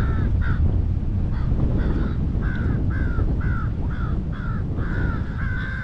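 A bird calling over and over, a dozen or so short falling calls at about two a second, over a steady low rumble of wind on the microphone.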